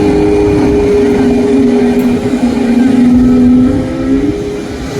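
Pratt & Whitney PW1500G geared turbofan engines of an Airbus A220-300 running, a loud steady hum of two tones over a deep rumble. The lower tone dips slightly and then rises before fading out about four seconds in, when the sound drops a little.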